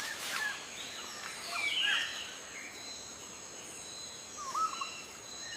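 Quiet outdoor nature ambience with a few faint, short bird chirps, the clearest about four and a half seconds in, over a steady faint high-pitched tone.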